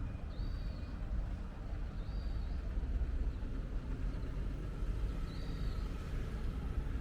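Rover Mini Mayfair 1300 Injection's 1275 cc A-series four-cylinder engine idling steadily, just after starting.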